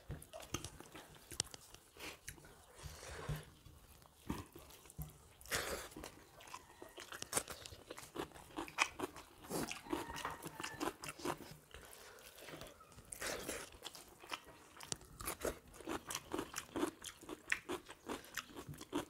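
Close-up eating sounds of two people chewing rice and soya chaap curry eaten by hand, a run of short, irregular wet clicks and mouth noises, with fingers mixing rice on steel plates.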